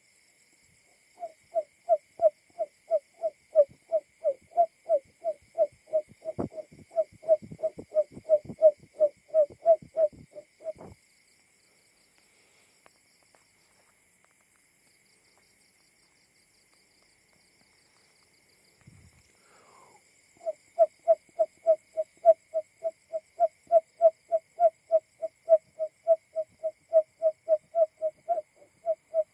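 Simulated call of a male barred buttonquail: a run of short, even hoots at one steady pitch, about three a second, lasting some ten seconds. After a pause of about ten seconds, the hoot series starts again about twenty seconds in.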